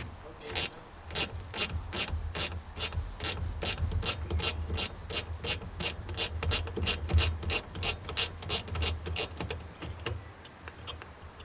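Hand ratchet wrench clicking steadily, about three clicks a second, as a nut is worked loose; the clicking stops about nine and a half seconds in.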